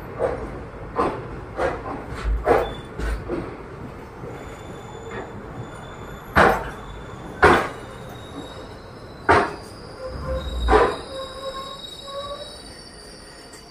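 Express passenger train coaches rolling slowly along a station platform, heard at an open coach door: irregular heavy clunks from the wheels over the rail joints and points. A thin wheel squeal comes in through the second half as the train slows.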